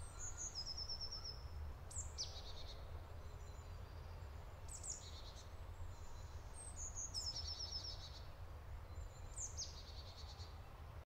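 A songbird singing: about five short high phrases, each a falling note followed by a quick run of repeated notes, coming every two to two and a half seconds over a faint low rumble.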